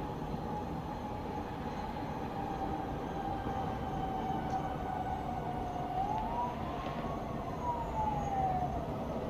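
Emergency-vehicle siren wailing over a steady low rumble of town traffic; its pitch sinks slowly, then rises and falls again once in a slow wail near the end.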